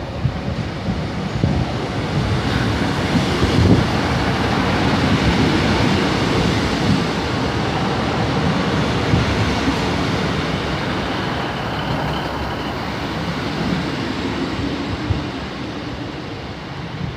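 A passenger train running past at close range, a dense rumble of engine and wheels on rail that builds over the first few seconds, holds, then fades toward the end.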